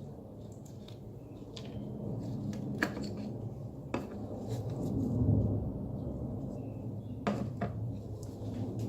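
Small hard engine-bay parts being handled by hand: about four sharp clicks and knocks, over a steady low rumble.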